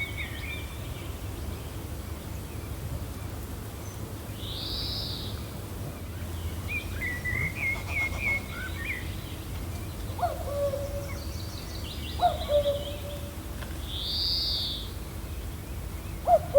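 Woodland birds calling over a steady low wind rumble. A high, arching whistled call comes twice about ten seconds apart, a run of quick chirps sounds in between, and in the second half there are a few short, lower calls that fall in pitch.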